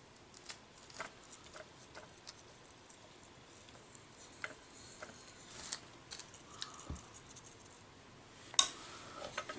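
Faint, scattered small clicks, taps and scrapes of PVC cement being daubed onto a pipe end and fitting, with one sharper click about eight and a half seconds in.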